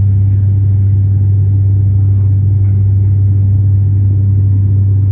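Cabin noise of an ATR 72 turboprop in flight: the propellers and engines give a loud, steady low drone with an unchanging hum.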